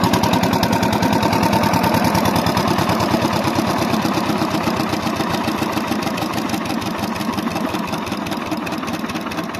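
An old diesel engine driving an irrigation water pump, running with a rapid, even firing beat. It grows gradually quieter over the second half.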